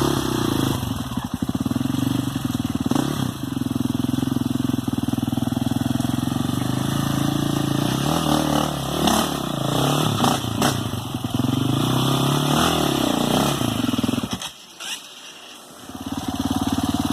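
Single-cylinder enduro motorcycle engine running and revving up and down. Near the end the sound drops away for about a second and a half, then picks up again.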